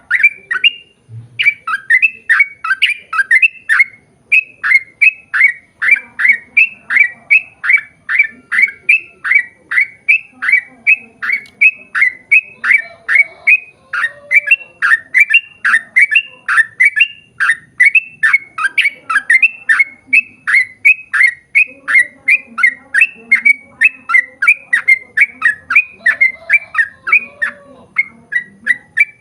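Yellow-vented bulbul (trucukan) singing a long, unbroken run of short falling notes, about three a second, with a brief pause about a second in.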